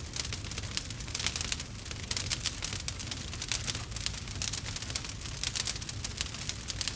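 Campfire burning, the wood crackling and popping in quick irregular snaps over a steady low rumble.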